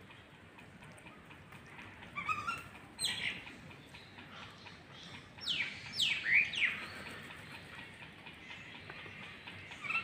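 Several short bird calls, most sliding down in pitch: a couple about two to three seconds in, and three more between five and seven seconds in.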